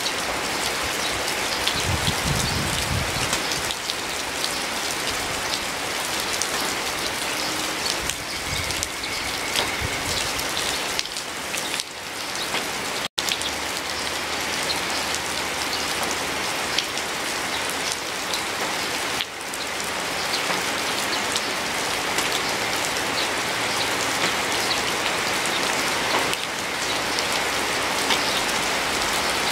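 Steady rain falling, with the sharp ticks of single drops striking close by. The sound drops out for an instant about 13 seconds in.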